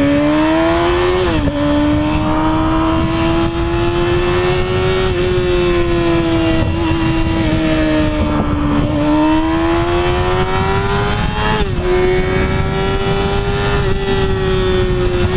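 Yamaha R6's 600cc inline-four engine pulling on the freeway. Its pitch climbs steadily and drops suddenly at gear changes, once about a second and a half in and again near the end, with a steady rush of wind on the microphone.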